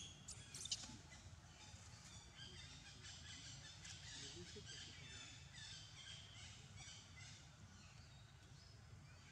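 Faint outdoor forest ambience with small birds chirping over and over in high, evenly repeated notes, fading near the end. A few sharp clicks come right at the start.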